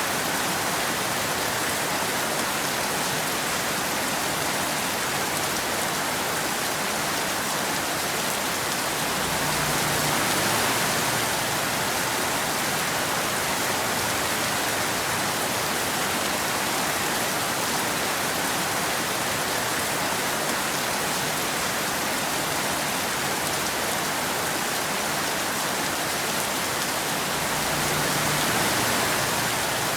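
Steady rain falling, an even dense hiss of drops that swells slightly about ten seconds in and again near the end.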